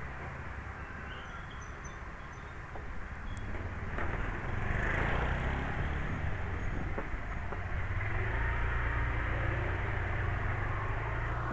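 Street traffic noise: a steady low rumble of road vehicles that gets louder about four seconds in and stays up.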